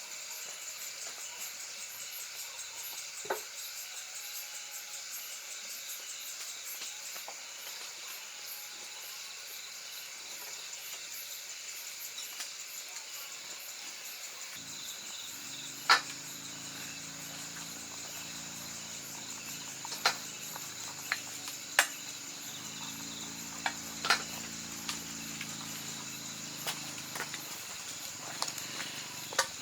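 Insects chirring steadily in the background, with a low hum coming in about halfway and a scattering of sharp clicks or knocks in the second half.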